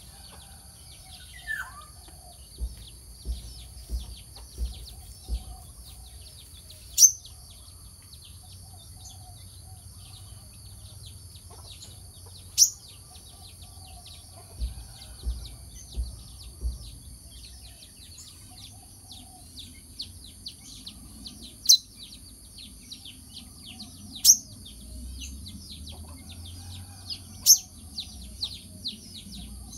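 Brown-throated sunbird calling: loud, sharp, high chirps every few seconds, dropping quickly in pitch, with a thin twitter of fainter chirps between them. Two short runs of low knocks come early on and again in the middle.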